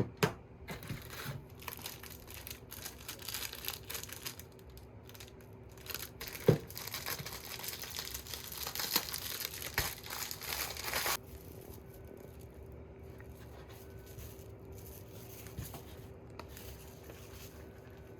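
Packaging being handled: crinkling and tearing with many small crackles, which stops suddenly about eleven seconds in. A faint steady hum remains after it.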